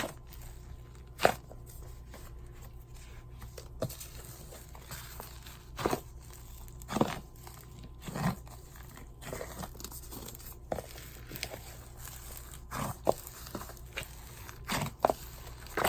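A large batch of slime being kneaded and stretched by hand, giving irregular sticky pops and crackles a second or more apart.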